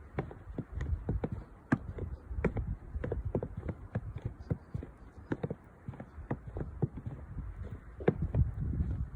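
Footsteps crunching through deep fresh snow, short crunches two or three a second at an uneven pace, over wind rumbling on the microphone.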